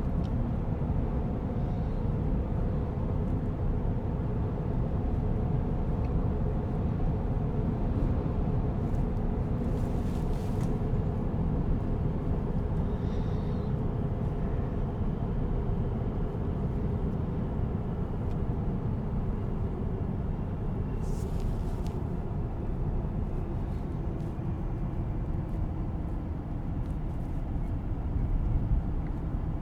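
Steady low road and tyre rumble inside the cabin of a moving Tesla Cybertruck, with no engine note from the electric drive. A brief faint hiss comes twice, about ten and twenty-one seconds in.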